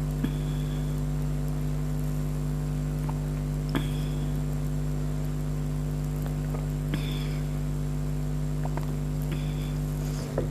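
A person drinking a cold drink close to the microphone: four short gulping clicks about three seconds apart, each followed by a brief high tone, over a steady electrical hum and hiss.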